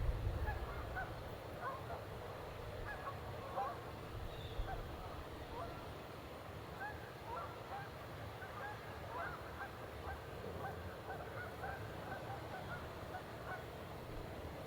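A flock of geese honking: many short, overlapping calls, kept up throughout.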